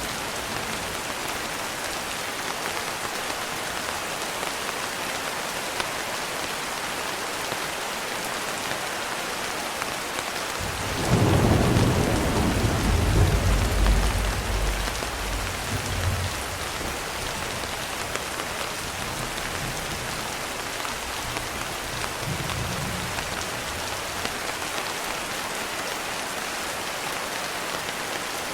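Steady rain falling, with a roll of thunder that breaks in suddenly about ten seconds in, rumbles loudly for several seconds and fades away, and a faint low rumble again later.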